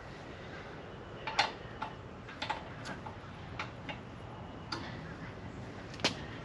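Scattered light clicks and taps at irregular intervals over a low background hiss, the sound of small hard objects being handled.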